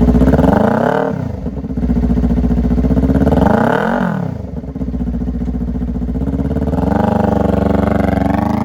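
Kawasaki Ninja 400's parallel-twin engine with a Leo Vince aftermarket exhaust, running and being revved: a short blip under a second in, a quick rev up and down around four seconds in, and a slower, longer rise near the end.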